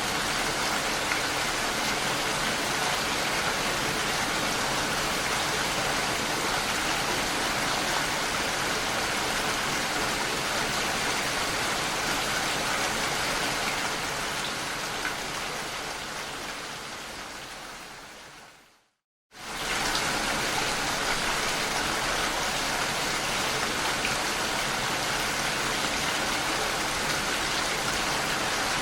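Steady rain falling. About two-thirds of the way through it fades out to a moment of silence, then starts again abruptly at full level, as at a loop point in the recording.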